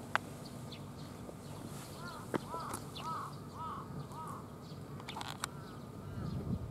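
A bird calling over outdoor ambience: a string of about five short, arching notes at roughly two a second, then a brief cluster of calls with sharp high ticks about five seconds in. A single sharp click sounds just after the start.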